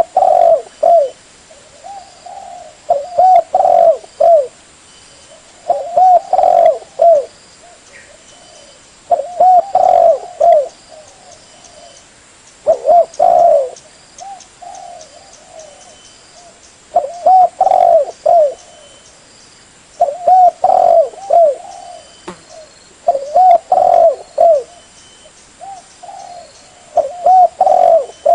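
Spotted dove (tekukur) cooing in repeated phrases, each a run of several short coos, about every three seconds.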